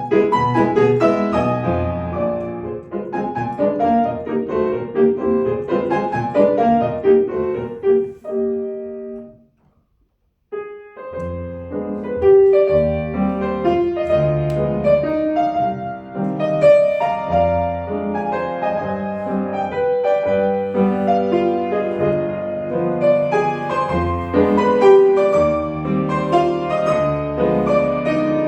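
Solo piano playing classical music. The playing dies away about nine seconds in, leaves a second of silence, and then starts again.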